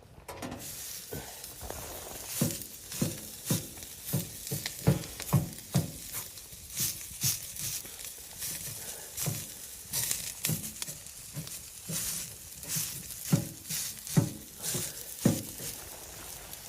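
Footsteps crunching through deep snow at a steady walking pace, about two steps a second.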